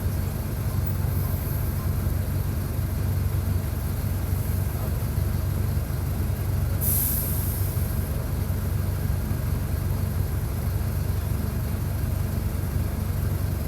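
Mercedes-Benz OF-1722 bus's diesel engine running steadily, heard close to the engine. About seven seconds in, a short hiss of compressed air from the bus's air system.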